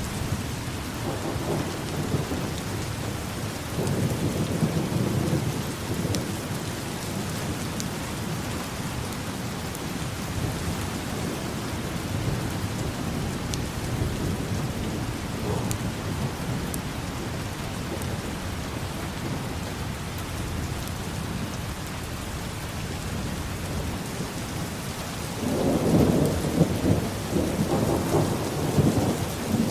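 Steady heavy rain with low rolling thunder, swelling a little a few seconds in and growing into a louder, longer rumble near the end.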